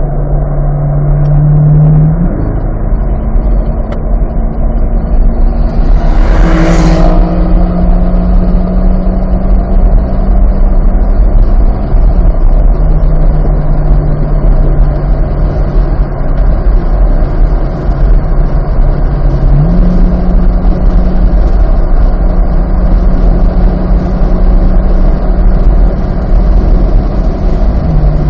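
Chevrolet C8 Corvette Z51's 6.2-litre V8 running at steady throttle on track, under loud wind and road noise. The engine note holds level and steps up or down a few times. There is a brief loud hiss about seven seconds in.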